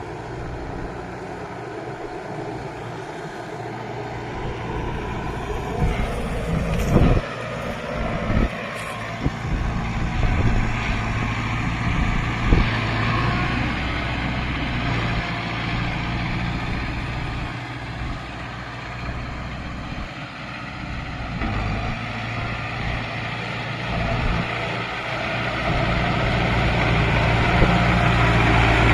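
Kubota MU5502 4WD tractor's diesel engine running steadily under load, with a few sharp knocks between about six and nine seconds in and another near halfway. It grows louder toward the end.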